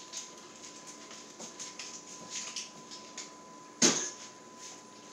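Grilled cheese sandwiches frying in a pan, with faint, scattered crackles over a faint steady tone. A single sharp knock comes a little before four seconds in.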